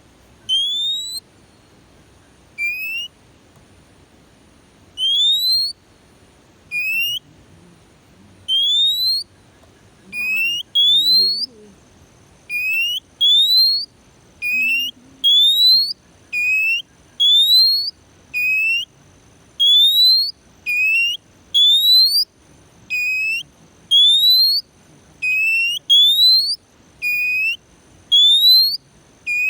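Oriental magpie-robin (kacer) giving a long series of clear whistled notes, nearly one a second. Each note rises in pitch, longer upslurs alternating with short hooked ones.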